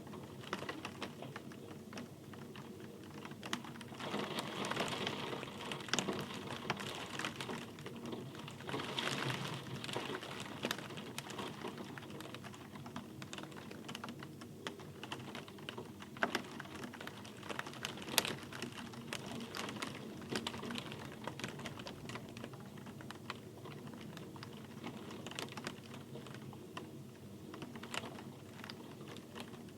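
Rain falling, with many separate drops heard as sharp ticks over a steady patter. It grows louder for a few seconds twice, around four and nine seconds in.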